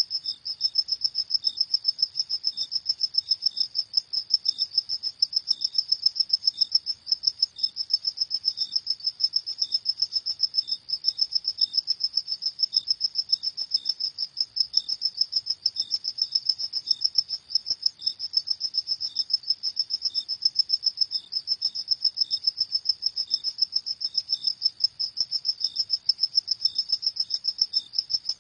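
Crickets chirping in a fast, even, high-pitched pulse that never stops, with a second, fainter and slower chirp a little lower in pitch.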